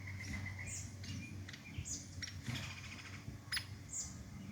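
Wild birds calling around feeders: a rapid run of repeated notes that stops about half a second in, then scattered short, high chirps and a few sharp ticks.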